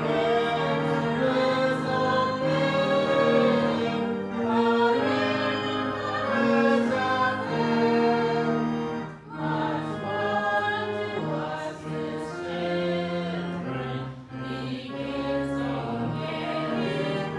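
A church congregation singing a hymn together, over an instrumental accompaniment that holds steady low chords.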